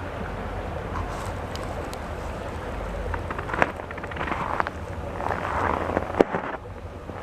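Steady rush of water from a small waterfall, with wind rumbling on the microphone and a couple of sharp clicks.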